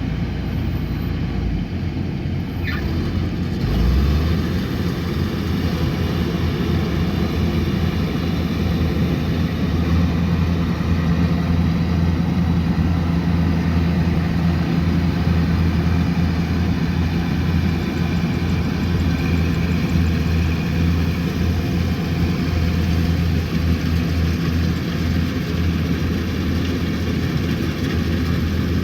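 Kubota combine harvester's engine running with a steady hum, briefly louder about four seconds in.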